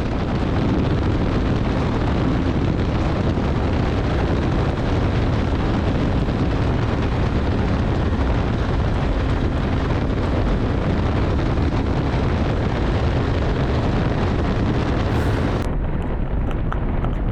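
Heavy wind rush over the mic mixed with the Bajaj Dominar 400's single-cylinder engine, ridden hard at high highway speed. About 16 s in, the high hiss drops away suddenly.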